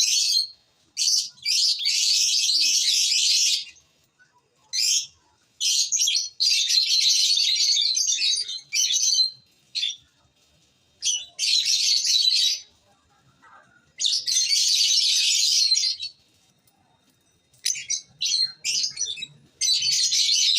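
Lovebirds chattering in bursts of rapid, high-pitched twittering one to three seconds long. Short single chirps and brief silent gaps fall between the bursts.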